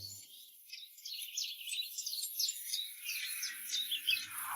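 Small birds chirping quietly: a quick, irregular run of short, high chirps that begins about a second in.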